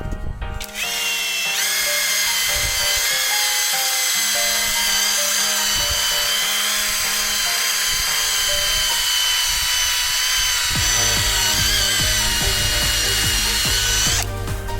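Cordless impact wrench spinning a brass cup brush: a steady, high motor whine with a hiss over it. It starts just under a second in and stops sharply near the end.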